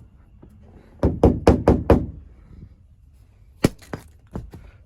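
Quick series of knocks on the truck's sheet-metal roof panel, five in about a second, followed near the end by a few sharper taps.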